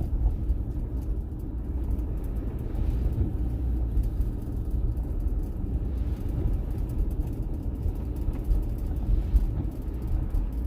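A car in motion: a steady low rumble of engine and road noise.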